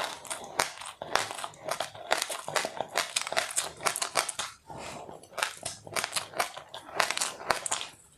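Close-up crunching of a crisp seed or puffed-rice snack being chewed: dense, irregular crackles.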